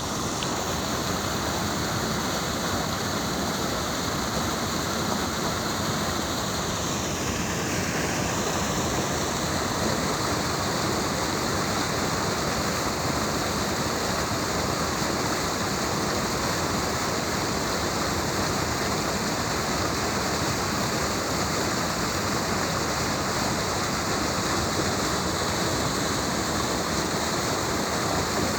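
Strong, fast river current rushing, a steady even roar of water.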